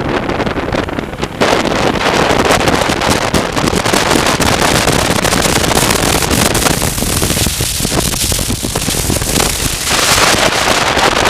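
Heavy wind buffeting on the microphone of a moving motorcycle, with the bike's running and road noise underneath. It eases slightly about seven seconds in and picks up again near the end.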